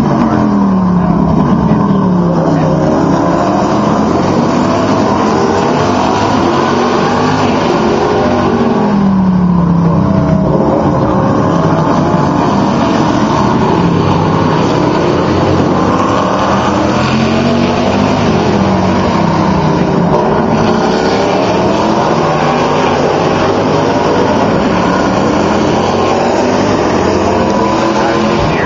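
Several race cars' engines at a tight hairpin, overlapping. Each car's pitch falls as it brakes and downshifts into the corner, then climbs again as it accelerates away, one car after another.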